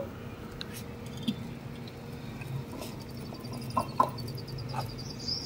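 A small bird chirping in a quick run of high notes from about halfway through, over a faint steady hum. A few light clicks, like a spoon against a dish, are heard along the way.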